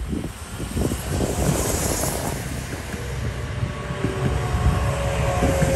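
Diesel multiple-unit train coming through on the Pomeranian Metropolitan Railway line, a rumble of engine and wheels on the rails that builds up, with a steady whine joining in during the second half.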